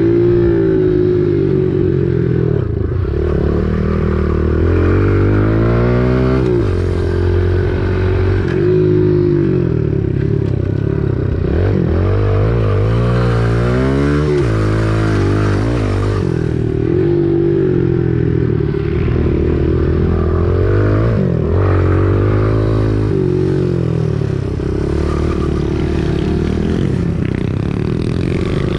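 Kawasaki KLX110 pit bike's small single-cylinder four-stroke engine being ridden hard, its pitch rising and falling again and again as the throttle is opened and closed through the corners.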